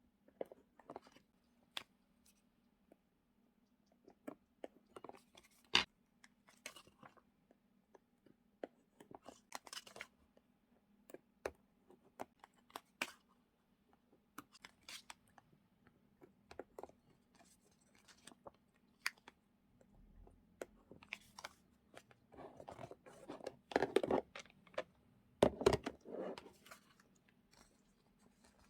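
Paper journaling supplies being handled and sorted: scattered light taps, clicks and rustles, with a stretch of louder crinkling a few seconds before the end.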